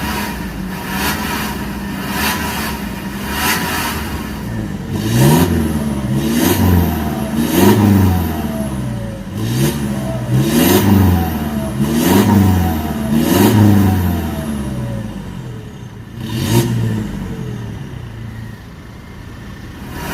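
Toyota Fortuner GR 2.8's four-cylinder turbodiesel engine through an aftermarket stainless full-system valvetronic exhaust. It idles steadily, then is blipped in about six quick revs that each rise and fall, gives one more rev a few seconds later and drops back to idle near the end.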